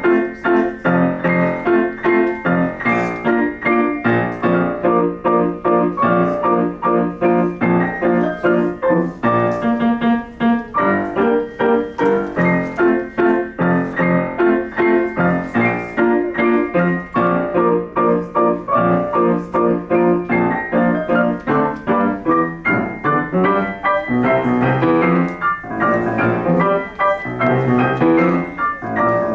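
A piano played solo, a continuous piece of quick, evenly paced notes without a break.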